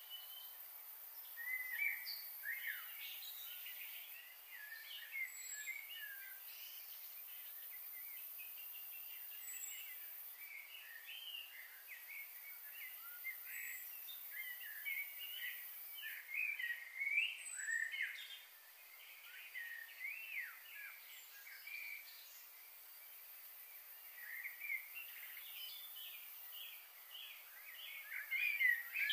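Several birds chirping in quick, short notes, with a few thin high whistles, over a faint steady hiss; the chirping grows busier near the end.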